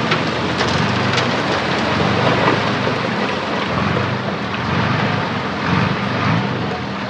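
Heavy diesel engine running steadily under a dense, noisy crackle with scattered clicks.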